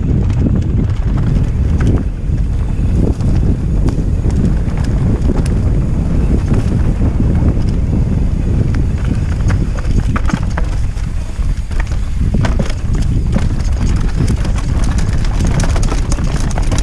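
Wind buffeting the microphone over a steady rumble, with rapid clattering knocks from a mountain bike riding down a rough downhill trail. The clatter grows busier in the second half.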